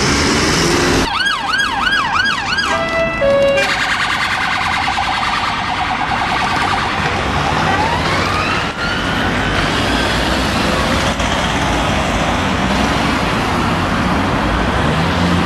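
Emergency vehicle siren passing in traffic: a fast yelp for about two seconds, a few short steady tones, then a slow rising and falling wail, over the noise of road traffic.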